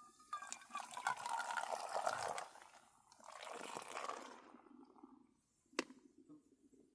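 Liquid being poured in two pours of about two seconds each, with one sharp click near the end.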